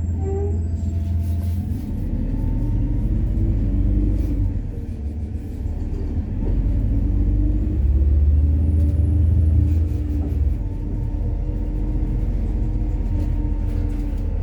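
MAZ-103 city bus running on compressed natural gas, heard from inside while driving: a steady low engine and drivetrain rumble whose pitch shifts as the engine speeds up and slows, growing louder for a couple of seconds about eight seconds in.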